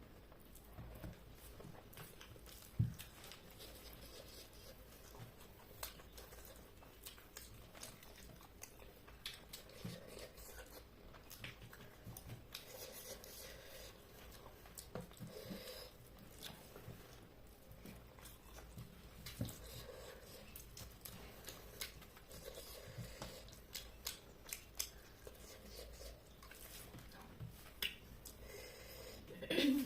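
A person chewing and eating chicken curry with rice: soft, irregular mouth clicks and smacks.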